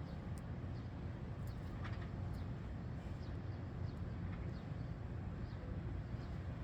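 Faint, scattered short chirps sliding down in pitch, a few per second at most, over a steady low rumble.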